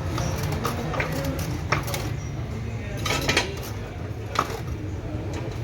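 Scattered metallic clinks and taps of tools against metal parts, about six of them, over a steady low hum.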